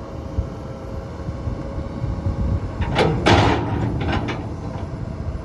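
Komatsu PC210LC excavator's diesel engine running with a steady low rumble. About three seconds in, a loud scraping clatter lasts about half a second.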